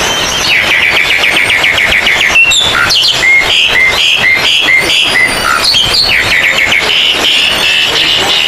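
Several oriental magpie-robins (kacer) singing at once over a dense chorus of other songbirds, as at a songbird contest. The loudest is a rapid trilled series of notes, then a run of repeated short whistles about three a second, then another fast trill.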